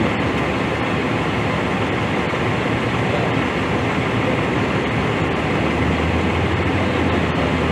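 Steady noise of a running vehicle, with a low hum that grows a little stronger about six seconds in.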